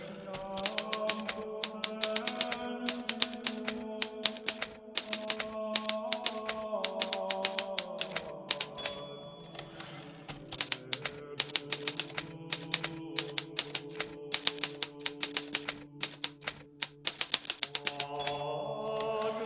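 Hermes Baby portable typewriter being typed on in quick runs of keystrokes, broken by a few short pauses, over soft background music of slowly changing held notes.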